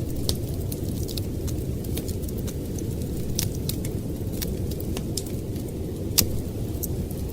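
Wood fire crackling in a fireplace, with irregular sharp snaps and one louder pop about six seconds in, over a steady low rumble of blizzard wind.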